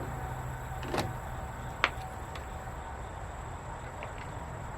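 Shotgun shells and the AK-style shotgun's box magazine being handled: a few sharp clicks and knocks, the clearest about one and two seconds in, as a shell is forced against the magazine, which will not take it.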